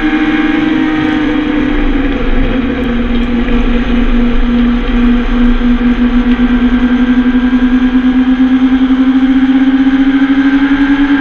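Motorcycle engine running at road speed under wind rush. Its note drops about two seconds in, then climbs slowly and steadily as the bike pulls harder.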